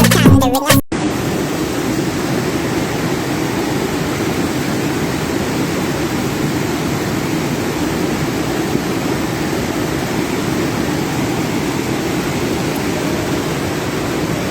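Steady, unbroken rushing of a flooded river in spate. A short burst of music cuts off about a second in.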